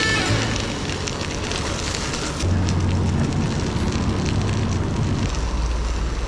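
Wind rumbling and crackling on the microphone of a moving bicycle, with road and traffic noise underneath.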